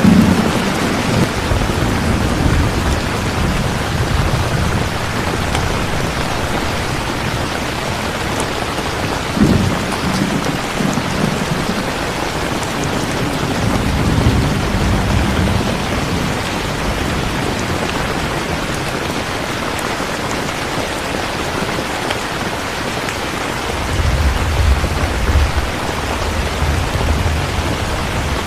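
Steady heavy rain with low rolls of thunder rumbling several times, loudest near the start and again near the end.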